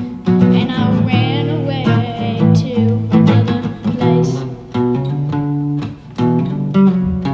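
Band music led by a strummed acoustic guitar, with rhythmic chord strokes throughout.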